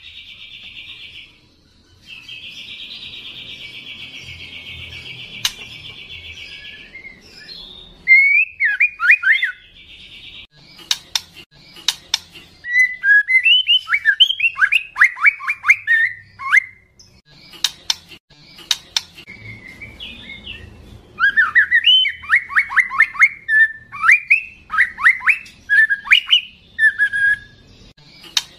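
Juvenile white-rumped shama singing loudly: a long buzzy, rasping note for several seconds at the start, then from about eight seconds in, bursts of rapid sweeping whistled phrases with sharp clicks between them. This is song that calls out a rival bird.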